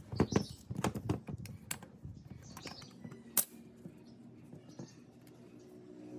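A run of light clicks and knocks, closely spaced in the first two seconds, then sparser, with one sharper click about three and a half seconds in.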